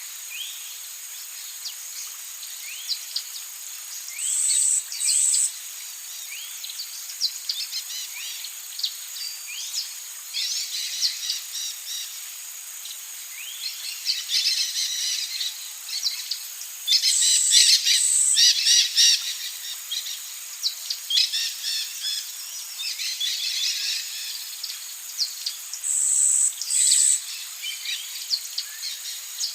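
Amazon rainforest ambience: many birds calling in short rising chirps and trills over a steady high-pitched insect drone. Three times, a pair of short loud high buzzes rings out about a second apart.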